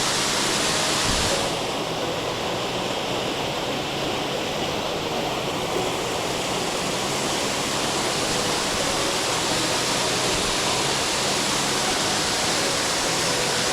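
Waterfall rushing steadily, heard from close below the falls. The higher hiss thins a little about a second and a half in.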